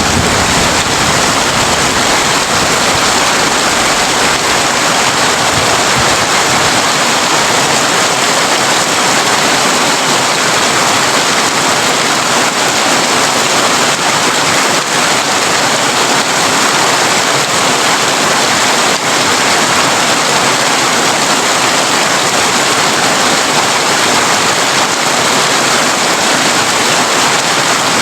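Heavy rain drumming steadily on a tin (corrugated metal) roof, a dense even patter. A low rumble dies away over the first few seconds.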